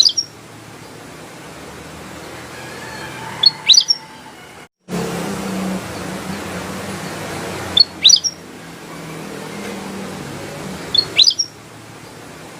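Kutilang emas bulbul calling: a short phrase of a few sharp, high whistled notes, repeated four times about every four seconds, over a steady low hum. The sound cuts out completely for a moment a little before halfway.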